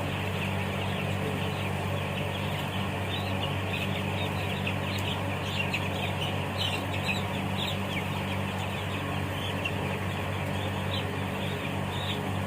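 A flock of week-old broiler chicks peeping continuously, many short high chirps overlapping, over a steady low machine hum.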